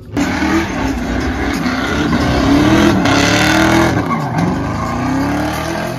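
V8 car engine revving hard, cutting in suddenly at the start. Its note rises and falls, drops sharply about four seconds in, then climbs again.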